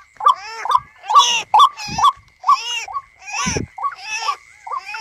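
Bird calls repeating about twice a second, each a short arched squawk, over a steady high whine. Two dull knocks come about two seconds in and past the three-second mark.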